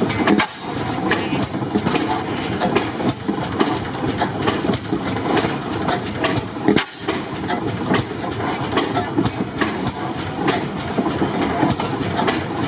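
Antique stationary gas engines running, with many irregular sharp knocks over a steady mechanical din.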